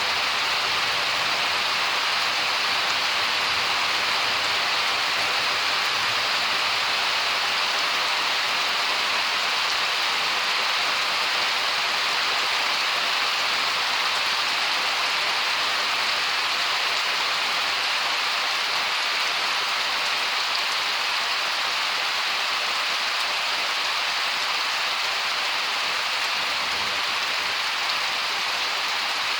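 Steady heavy rain falling, a constant even hiss of drops with no thunder heard.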